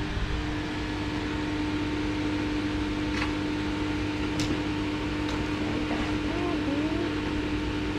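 Steady mechanical hum of running HVAC refrigeration equipment, with one strong low tone over a noise haze. A few light clicks come near the middle.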